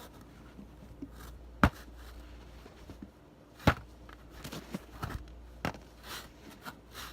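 A few sharp knocks and softer taps from the carved soap being handled, the two loudest about a second and a half and three and a half seconds in.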